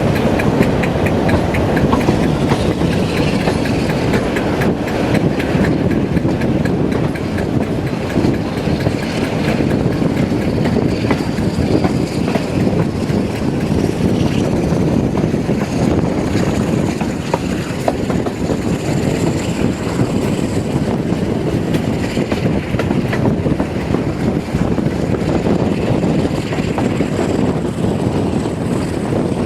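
Diesel train running, a steady loud noise with a faint high whine that rises slowly in pitch from about eight seconds in to about twenty seconds in.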